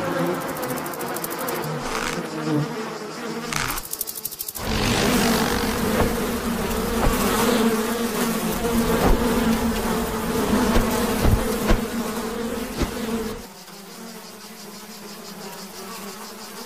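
Insect wings buzzing, a steady hum that breaks off briefly about four seconds in and drops away to quieter background sound near the end.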